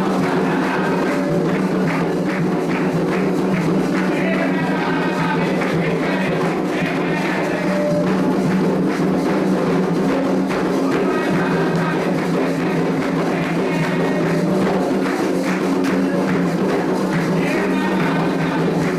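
Candomblé ritual music: hand drums and percussion keeping a steady beat under group singing of chants in Yoruba.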